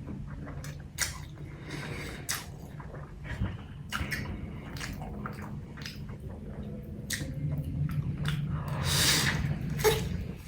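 Close-miked eating of black bean noodles: wet chewing and smacking with scattered small clicks, and a louder drawn-out sound about nine seconds in.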